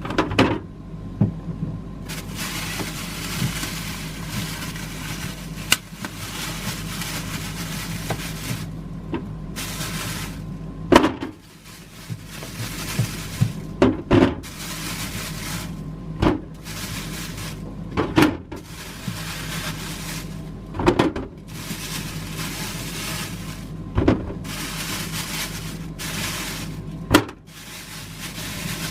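Plastic storage containers and items being handled and set down in a kitchen drawer, with a sharp knock or clack every two to three seconds over a steady low hum.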